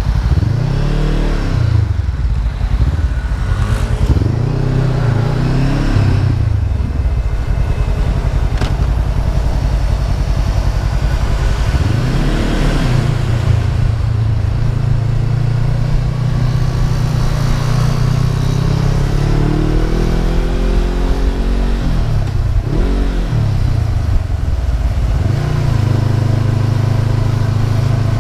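Honda CB500F's parallel-twin engine on the move, its pitch rising and falling several times as the throttle is opened and closed, with stretches of steady running in between.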